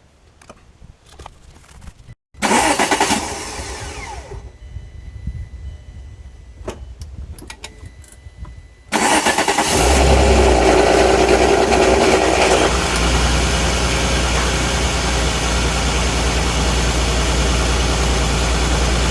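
VW T4 Transporter's V6 engine starting from fresh oil: it cranks and catches about nine seconds in, runs fast for a few seconds, then settles to a steady idle. The start is rough. An earlier loud noise a couple of seconds in fades away after about two seconds.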